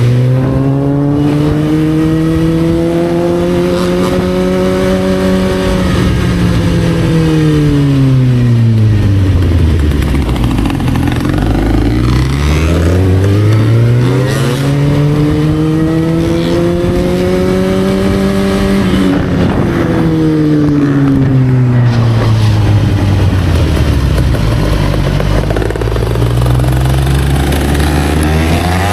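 Motorcycle engine under way, its pitch climbing smoothly as it speeds up, holding, then falling as it slows, twice over, and starting to climb again near the end, over a steady rushing noise.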